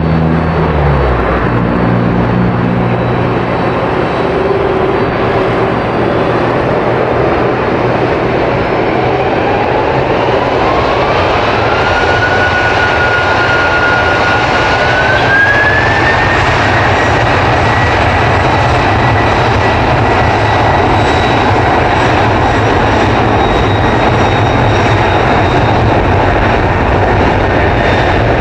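Twin jet engines of a FedEx Boeing 767-300F freighter at takeoff power: loud, steady jet noise with a whine that climbs in two steps around the middle, then holds high.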